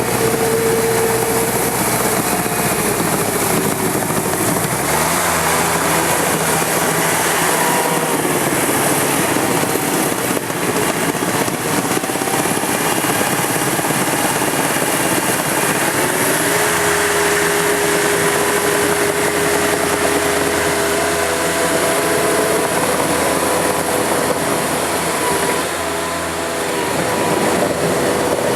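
Engine of a Mobitrac amphibious machine running steadily at working speed, its pitch rising about five seconds in, dipping and climbing again about midway, and shifting near the end as the machine is manoeuvred.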